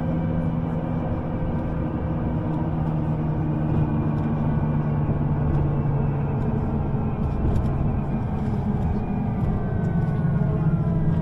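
A running vehicle: a steady low hum over a rumble, with a faint whine that changes pitch near the end.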